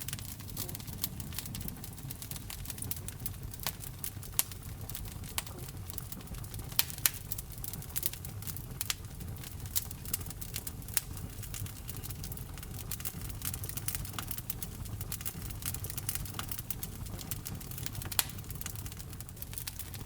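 Wood fire burning in a fireplace: irregular sharp crackles and pops over a low, steady rumble of the flames, with a few louder pops around the middle and near the end.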